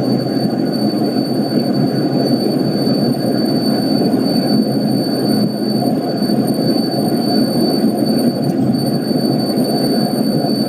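Skoda Octavia's rear right wheel squeaking at about 100 km/h: a thin, steady high-pitched squeal over loud road and tyre noise in the cabin. The cause is unknown to the owner.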